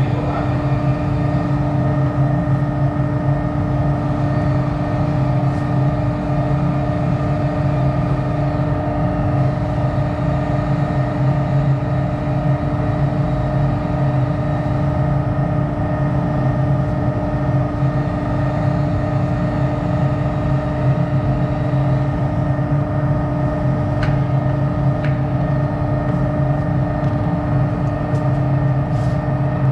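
An electric motor running steadily at constant speed, giving an even, unchanging hum.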